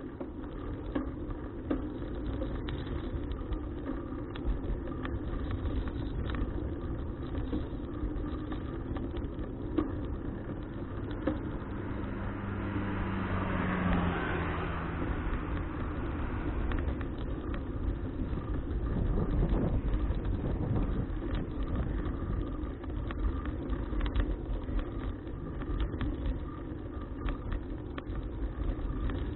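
Wind and road noise on an action camera's microphone while riding a folding bicycle, with small rattling clicks throughout. About halfway through, a motor vehicle passes, and its engine tone drops in pitch as it goes by.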